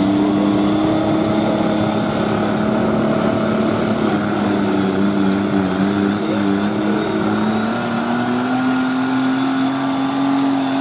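Garden tractor engine running steadily at high speed, its pitch rising a little about eight seconds in.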